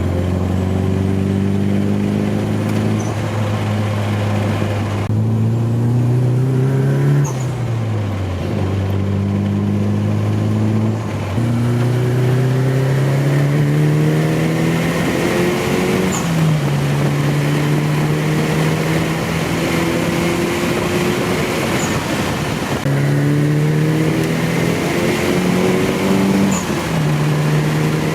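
Car engines accelerating hard through the gears: the engine note climbs in pitch and drops back at each gearchange, over and over.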